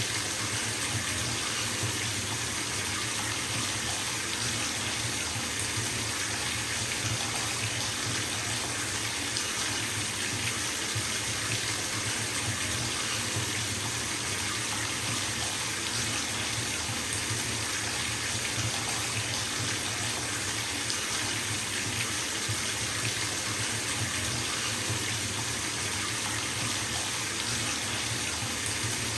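Bathtub filling from a running tap: a steady stream of water splashing into the tub, with an even hiss and a low rumble.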